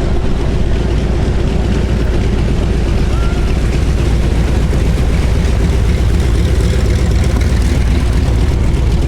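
The Curtiss SB2C Helldiver's radial piston engine running with a steady, even drone, mixed with wind rumble on the microphone.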